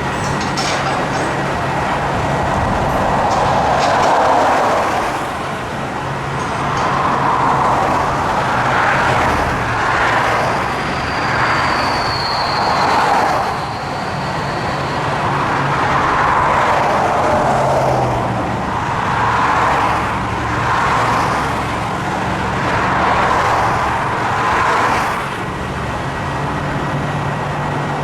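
Traffic going by on the highway, one vehicle after another, each a rush that swells and fades, over the steady hum of an engine running close by. A faint high whine sounds briefly about midway.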